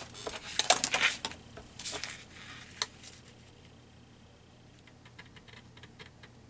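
Paper pieces being handled and shuffled on a craft table, with rustles and small clicks in the first two seconds, one sharper click near three seconds in, then only faint light taps.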